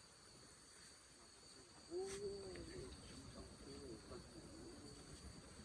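Insects, crickets or similar, keeping up a steady, thin, high-pitched drone.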